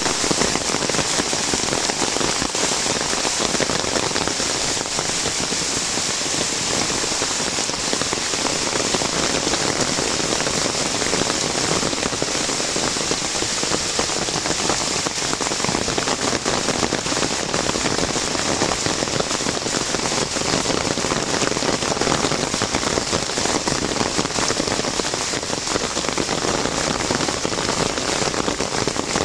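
Heavy rain falling on an umbrella: a steady, dense patter of drops over a constant hiss.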